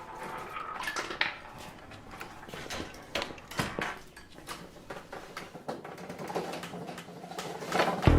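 Irregular light clicks and taps of an aari hook needle punching in and out of fabric stretched on an embroidery frame.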